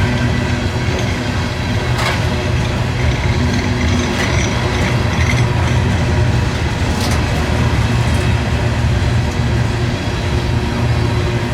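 Train rolling past: a steady heavy low rumble, with a sharp clank about two seconds in.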